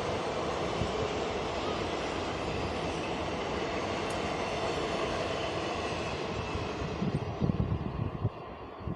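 Passenger train passing at speed: a steady rush of coaches running on the rails. The noise thins out near the end as the train clears, with a few low thumps.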